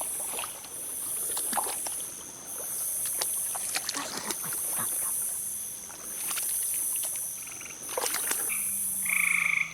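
Night-time swamp sounds: insects calling in a high, pulsing buzz, about one long pulse every second and a half. Irregular splashes and sloshing of wading through shallow water, and a short frog call near the end.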